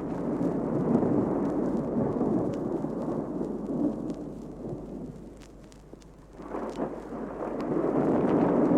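Thunderstorm sound effect with rolling thunder and rain, played from a vinyl record with faint surface clicks. One long rumble fades away about five to six seconds in, and a second roll of thunder builds just after.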